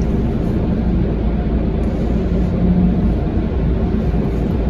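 Automatic car wash machinery running with a steady low rumble, heard from inside the car's cabin.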